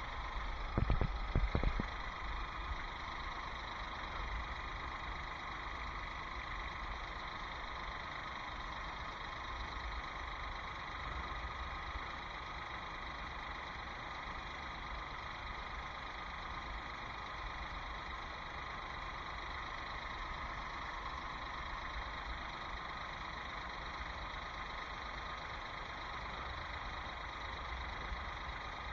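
2015 Ford Escape's 1.6-litre turbocharged four-cylinder engine idling steadily after an oil change, running to circulate the fresh oil. A few low thumps come about a second in.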